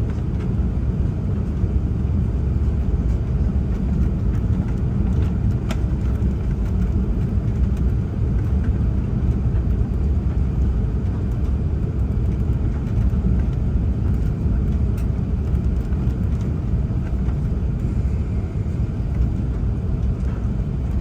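Steady low rumble of a four-engine Airbus A380 on its landing approach: engine and airflow noise at an even level.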